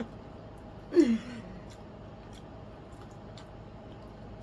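A woman's short vocal sound about a second in, falling in pitch with breath in it, followed by quiet with a few faint small clicks.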